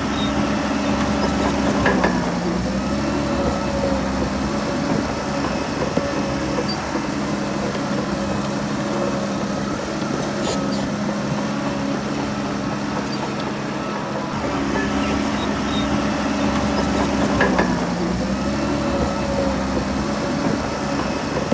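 Heavy diesel engine of earthmoving machinery running steadily. Its pitch dips briefly twice, about two seconds in and again near the end, then comes back up.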